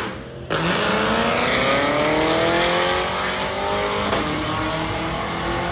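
Drag-racing car's engine accelerating hard down the strip, its pitch climbing steadily, with a brief break about four seconds in, as at a gear shift, before it pulls on at a steadier pitch.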